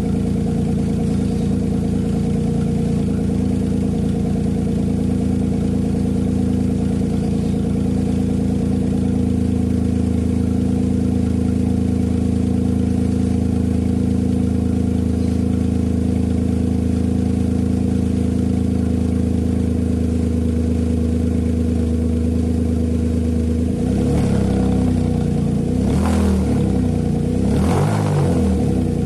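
Exhaust of a Nissan March K13's 1.2-litre three-cylinder HR12DE engine through an aftermarket racing muffler, the "dry"-sounding kind, idling steadily. Near the end it is revved briefly a couple of times.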